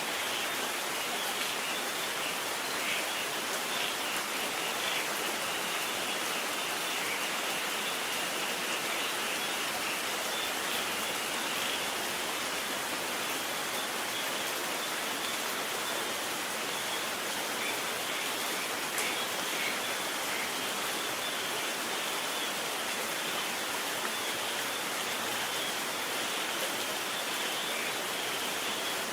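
Steady rain falling, an even hiss with fine pattering of drops and no thunder.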